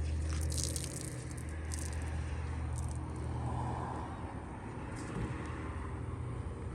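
Steady low hum of a car engine idling, with rustling and a brief trickle of water as a soaked wash towel is wrung out.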